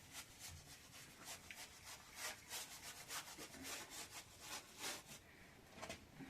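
A series of faint, irregular scraping strokes, several a second.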